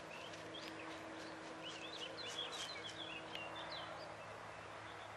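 A small bird singing: a quick run of high chirps about two seconds in, over a steady outdoor background hiss.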